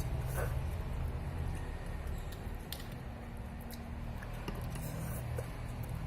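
Soft eating sounds of instant noodles being chewed, with scattered faint small clicks of chopsticks and a fork, over a steady low hum.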